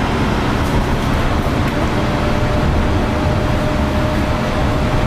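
Yurikamome automated guideway train running on its rubber tyres: a steady low rumble and rolling noise, with a thin steady whine coming in about two seconds in.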